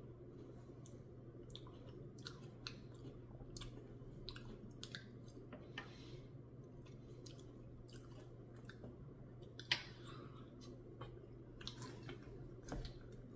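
Faint chewing and mouth sounds of someone eating a Dairy Queen Oreo Blizzard with chocolate graham cracker bits, with scattered small crunches and clicks and one sharper click about ten seconds in, over a steady low hum.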